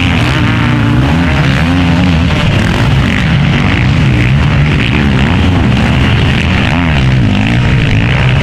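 Several motocross motorcycle engines revving up and down over one another, loud and continuous, as bikes race past on the track.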